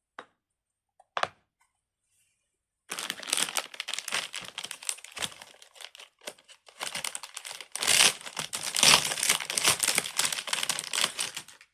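Two soft clicks, then from about three seconds in a long run of dense crinkling and crackling from handled plastic wrapping, loudest about two-thirds of the way through.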